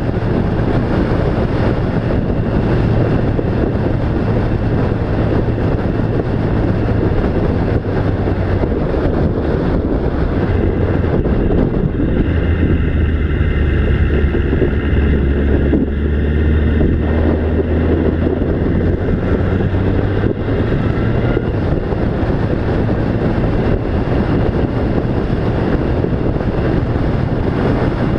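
A motor vehicle driving, its engine running steadily under loud road and wind noise; the engine note drops lower for a few seconds around the middle, then comes back up.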